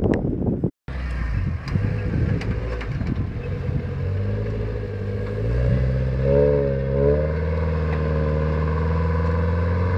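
Small four-wheel-drive Suzuki Jimny's engine pulling hard under load as it climbs a steep dirt slope. A steady low engine note builds from about four seconds in and holds, after a rougher, noisier start.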